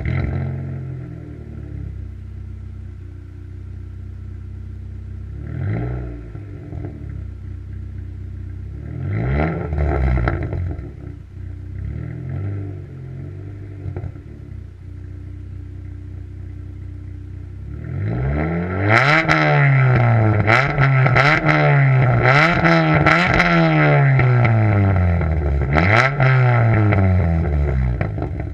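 Chevrolet Cavalier Z22's 2.2-litre four-cylinder running through a full-length 2-inch exhaust. It comes in suddenly and loud, then idles with a few short blips of the throttle. From about two-thirds of the way in it is revved up and down repeatedly, about six quick revs, before dropping back to idle at the very end.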